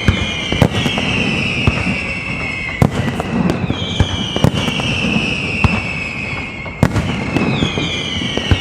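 Castillo fireworks: several overlapping whistling shells, each whistle sliding slowly down in pitch, with sharp bangs about once a second over a continuous crackle.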